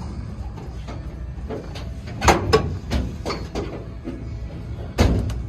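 Several sharp knocks and clunks, a cluster a little over two seconds in and a louder one near the end, over a low steady rumble.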